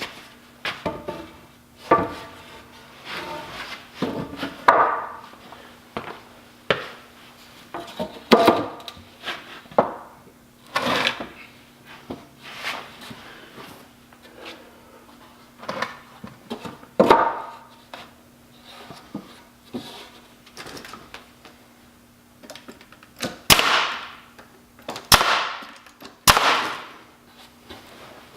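Wooden boards knocking and clattering as braces are handled and set against the workbench posts, with a few sharp cracks from a finish nail gun tacking them in place near the end.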